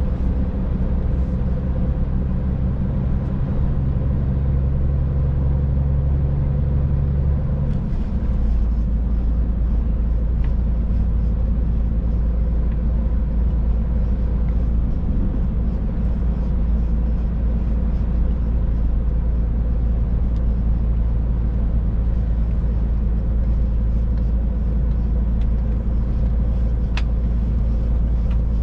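Scania truck's diesel engine and road noise, heard from inside the cab while driving: a steady low drone whose tone changes about eight seconds in, as engine speed changes.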